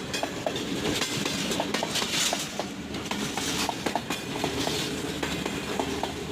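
Train rolling past, its wheels clicking over the rail joints in an uneven run of clicks over a steady rolling noise.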